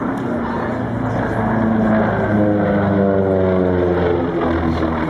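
Propeller airplane flying past, its engine note falling in pitch as it goes by.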